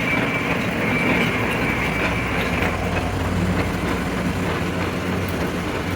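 Lathe turning a steel truck axle against a hand-held cutting tool: a steady grinding run with a high squeal in the first couple of seconds and a low hum that sets in about halfway.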